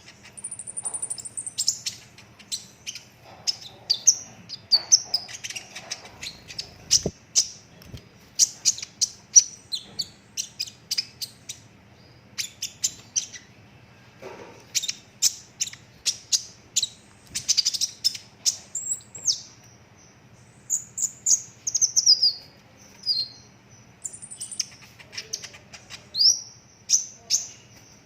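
Konin (kolibri ninja) sunbird in full song: rapid runs of sharp, high chirps, trills and quick down-slurred notes coming in close, dense bursts with short pauses between them. A faint steady hum sits underneath.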